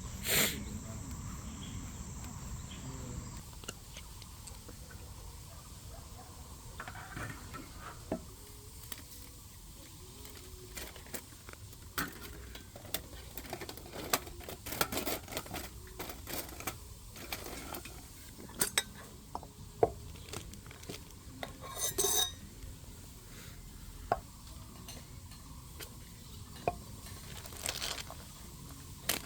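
Metal cooking utensils clinking, knocking and scraping against cookware in a scattered, irregular series of clicks.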